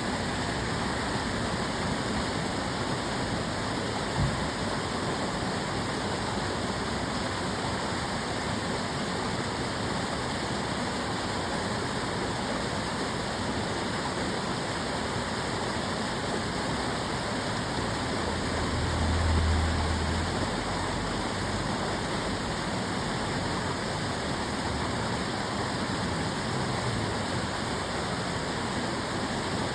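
Water flowing steadily in the Tamagawa Jōsui canal, an even rushing with no breaks. A brief low rumble swells up about two-thirds of the way through.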